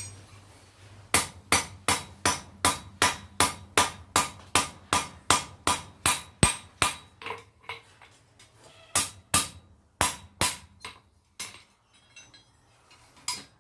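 Blacksmith's hammer striking a steel tong blank on an anvil in a quick, even run of about four to five ringing blows a second for some six seconds, then a few more blows after a short pause. The tong tip is being reworked after being bent the wrong way.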